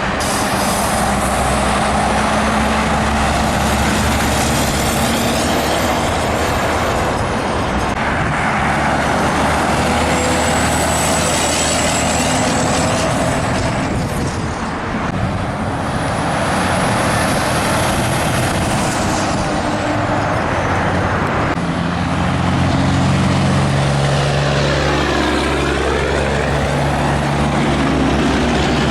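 Heavy trucks and other highway traffic passing close by: diesel engines running and tyre roar, with high whines that drop in pitch as vehicles go past.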